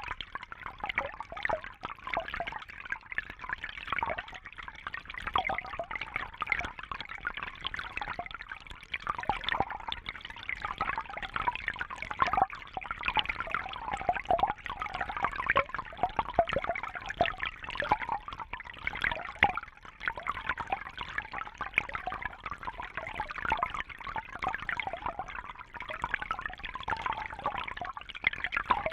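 Water trickling and bubbling steadily, with a dense patter of small splashes.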